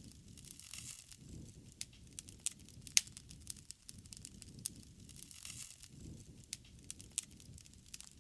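Wood fire crackling, with sharp, irregular pops over a soft low rush of flames. The loudest pop comes about three seconds in.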